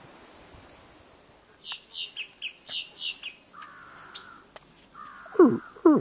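Birds calling in a wetland: a quick run of high chirps, then a short buzzy call, then near the end loud calls that slide steeply downward in pitch.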